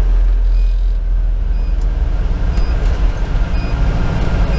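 Fire engine's 470 hp Detroit Series 60 diesel running with a steady low rumble, heard from inside the cab. A faint short electronic beep repeats about once a second.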